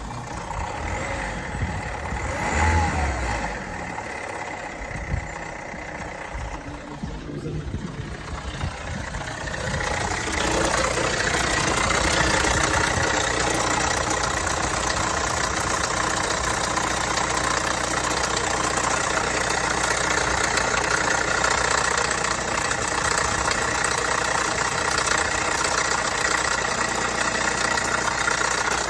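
Vauxhall Astra 1.6 engine running with the rattle that its owner has heard for months and that the dealer could find no fault for. The sound grows louder about ten seconds in and then holds steady.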